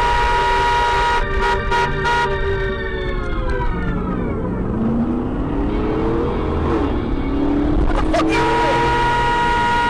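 A car horn held down in a long, steady blast. Its pitch slides down about three seconds in, lower wavering tones follow, and the steady horn blast starts again about eight seconds in.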